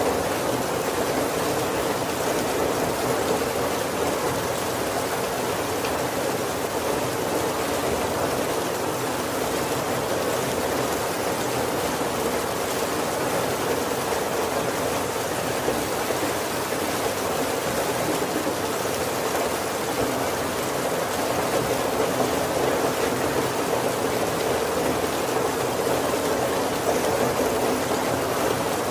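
Heavy rain falling steadily on the roof of a wooden carriage: a dense, even patter that does not change.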